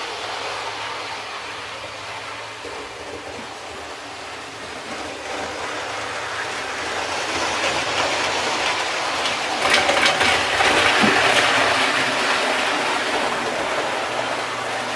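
A train running past, getting louder about halfway through, with quick clicks of wheels over rail joints at its loudest, then easing off.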